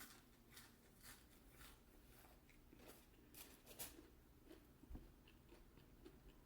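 Faint chewing of crispy fried chicken, with about a dozen soft, short crunches and clicks.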